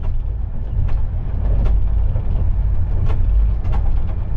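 Passenger train running at speed, heard from inside the carriage: a steady low rumble with a few faint clicks.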